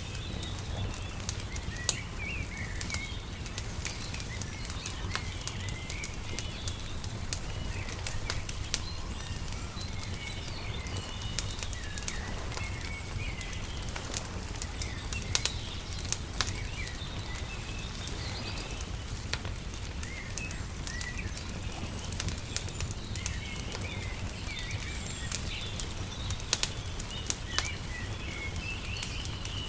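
Wood fire crackling with frequent sharp pops, under a steady low rumble, while small birds chirp repeatedly.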